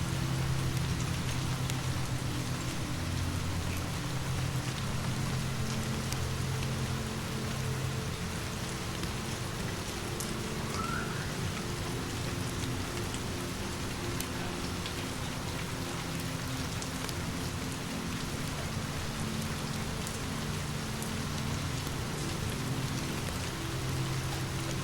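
Steady rain falling, with scattered faint crackles and ticks. Low, soft sustained tones sit underneath and change pitch a few times.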